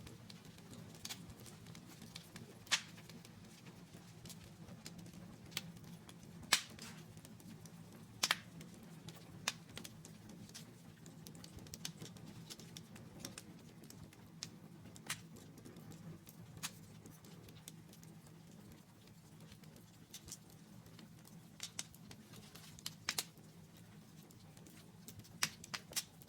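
Faint fire crackling: irregular sharp pops and snaps over a steady low hum.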